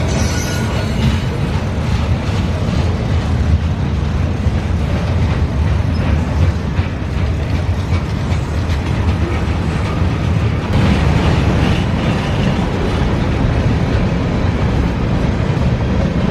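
Freight train rolling past, a steady low rumble of its cars on the rails, growing brighter and noisier about eleven seconds in.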